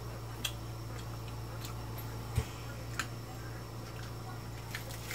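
Close-up eating sounds: scattered wet mouth clicks and smacks from chewing and finger-licking, over a steady low hum.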